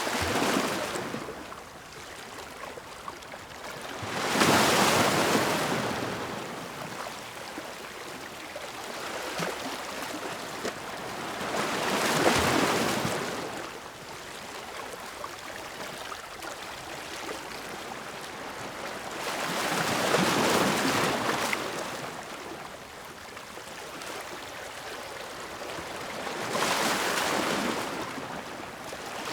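Ocean waves breaking on the shore, four swells of surf about eight seconds apart, each building and washing away over a couple of seconds, over a steady hiss of water.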